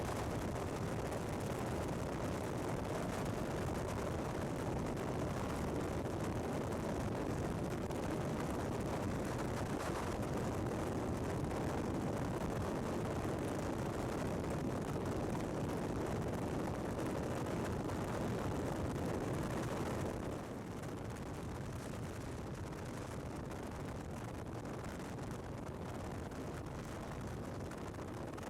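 BMW R1200GS boxer-twin motorcycle running under way, with wind and road noise in a steady rush. The level drops a little about twenty seconds in.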